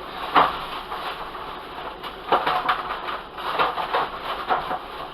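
Plastic oven bag rustling and crinkling in short scratchy bursts as it is handled.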